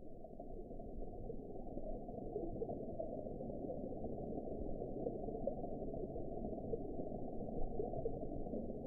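Underwater ambience: a steady, muffled rush of water, swelling up over the first second and then holding even.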